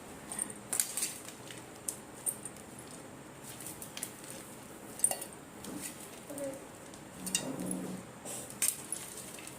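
Scattered light clinks and taps of a utensil against dishes, a dozen or so sharp short clicks spread over several seconds.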